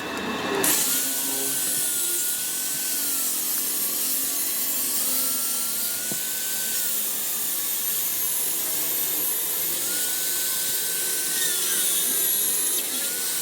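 Power tool working metal: a steady hiss with a whine that slowly rises and falls in pitch as the load changes.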